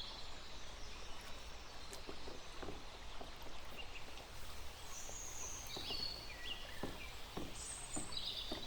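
Faint outdoor background with a few short high bird chirps and scattered light taps.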